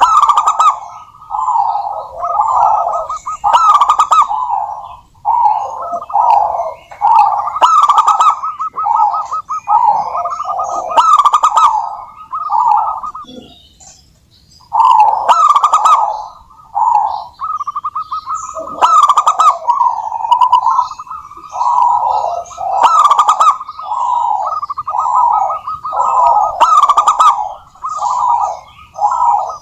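Zebra dove (perkutut) song: repeated phrases of rapid, rolling coo notes, one after another, with a short pause about halfway through.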